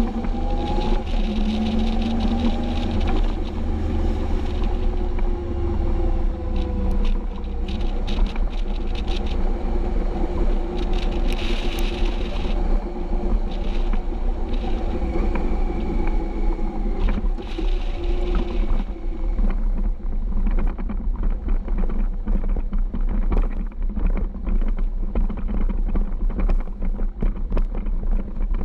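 Triumph Explorer XCA motorcycle's three-cylinder engine running through an Arrow exhaust while riding, its note rising and falling with the revs. About two-thirds of the way through it settles into a lower, rougher rumble.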